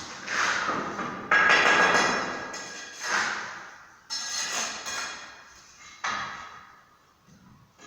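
A series of about five separate knocks or strokes, each starting sharply and fading away over about a second, some with a faint ringing tone.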